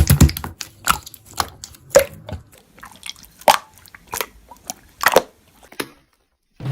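Slime being squished and poked: scattered wet, sticky clicks and a few small air-bubble pops. It cuts to a brief silence near the end.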